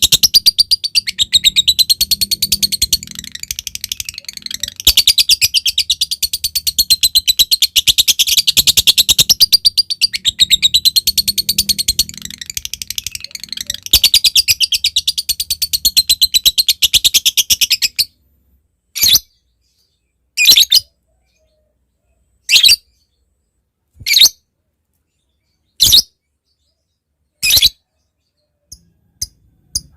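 Lovebird giving a long, rapid, high chattering trill (the "ngekek" call) that stops abruptly about 18 seconds in. After it come single sharp chirps, one about every second and a half.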